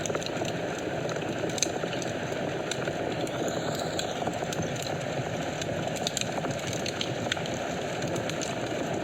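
Wood fire crackling in a fireplace: a steady hiss of flames with frequent small, sharp pops and snaps scattered irregularly throughout.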